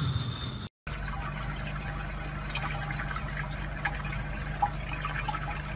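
Water running steadily from a sink tap onto a kitten, with small drips and splashes.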